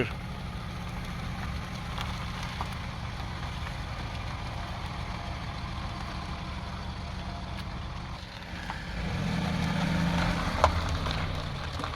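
2002 Honda CR-V's 2.4-litre four-cylinder engine running as the car is driven slowly for a test, swelling louder about nine seconds in. No scraping is heard from the rear wheel: the rusted rotor and dust shield have been cleaned, and the earlier wheel noise is gone.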